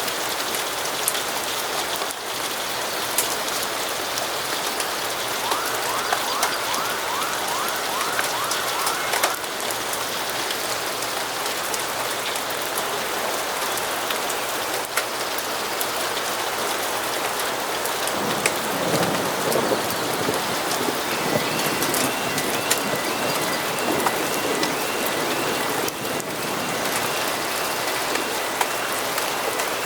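Steady rain falling, with a continuous patter of drops and scattered small clicks. A low rumble swells about two-thirds of the way through. Faint rapid repeating ticks come in twice.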